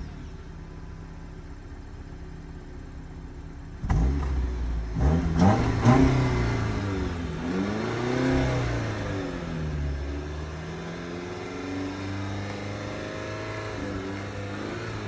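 Jeep Patriot's four-cylinder engine idling, then revved repeatedly from about four seconds in, its pitch rising and falling in several sweeps before easing into slower swells, while it burns off a Seafoam intake treatment.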